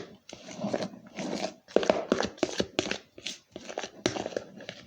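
Spoon scraping and knocking in a container while scooping a chocolate dessert mixture: a quick run of short scrapes and clicks.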